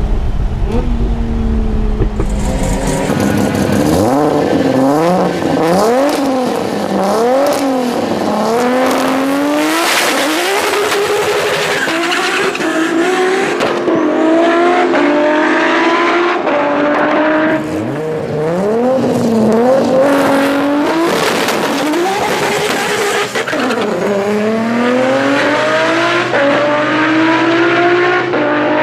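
Nissan Skyline R34 GT-R's twin-turbo RB26 straight-six being driven hard, its revs climbing and falling again and again through gear changes and throttle lifts, with a long climb near the end.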